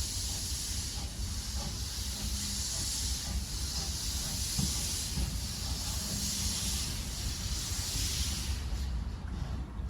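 Caledonian Railway 0-4-4T steam tank locomotive hissing steam steadily over a low rumble, the hiss dying away near the end.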